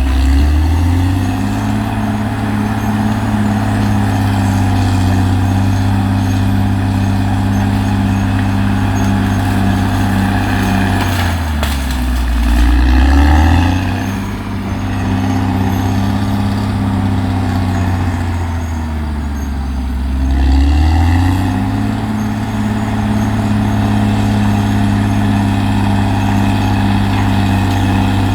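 CAT D6R XL bulldozer's diesel engine running steadily. Its note drops twice, about twelve and twenty seconds in, and climbs back each time.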